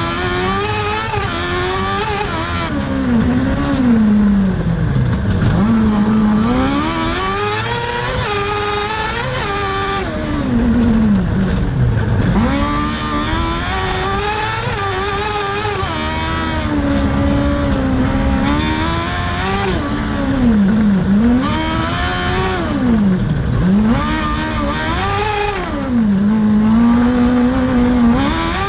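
Cross car engine revving hard and dropping off again and again as the car accelerates and lifts. The pitch climbs and falls every few seconds, with sharp drops in revs about 5, 12, 21 and 23 seconds in.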